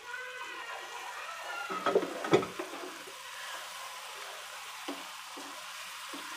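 Onion masala sizzling as it fries down in a nonstick frying pan while a spatula stirs it. A few louder spatula scrapes against the pan come about two seconds in.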